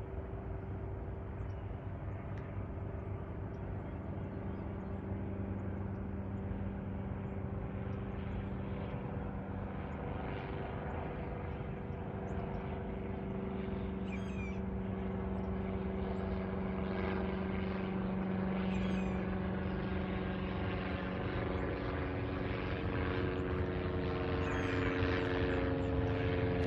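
Propeller aircraft engine droning steadily overhead, slowly growing louder toward the end, its pitch shifting slightly.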